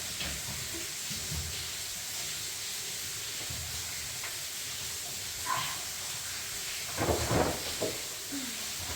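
Steady rushing hiss of falling water from an underground cave waterfall, with a few short scuffs and bumps about five and seven seconds in.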